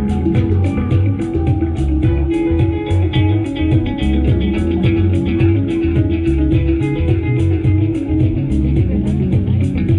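Live band playing at a sound check: a bass line with plucked, guitar-like notes over a steady ticking beat of about four strokes a second.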